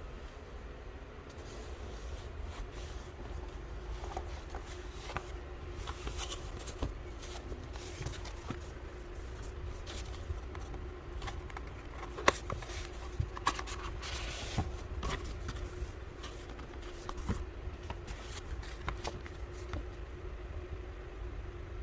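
Scattered clicks, taps and short rustles of things being handled, the sharpest click about twelve seconds in, over a steady low hum and rumble.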